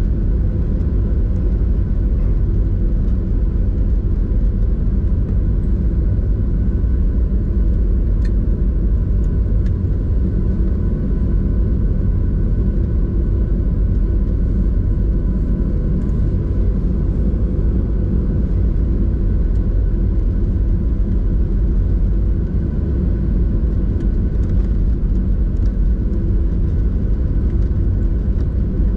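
Steady cabin rumble of a Boeing 737-800 taxiing after landing, its CFM56 engines at idle, with faint steady whines over the low drone.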